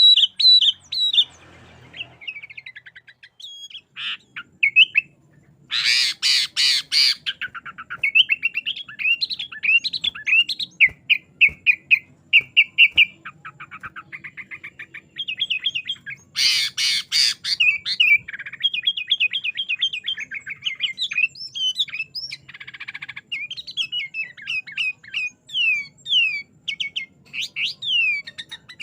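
Sooty-headed bulbul singing without a break: quick varied chirps, trills and whistled glides, with two loud harsh chatters, about six seconds in and again about sixteen seconds in.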